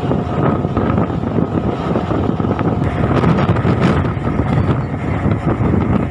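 MEMU electric multiple-unit train running along the track: a steady, loud rumble with faint clicks and rattles.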